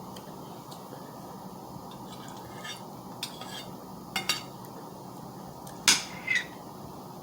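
A few scattered clinks of eating utensils against dishes, the loudest about six seconds in, over a steady low background hiss.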